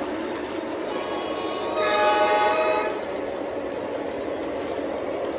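O-gauge model Santa Fe locomotive running on the layout with a steady rumble, its electronic sound system blowing the horn once for about a second, around two seconds in.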